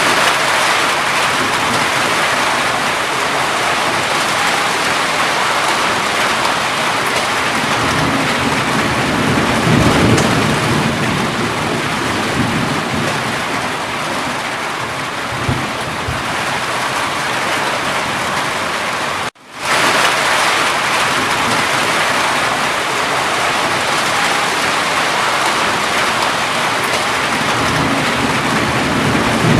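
Steady rain, a dense hiss, with a low rumble of thunder swelling about ten seconds in and again near the end. The sound cuts out for a split second about nineteen seconds in, like a splice in a looped recording.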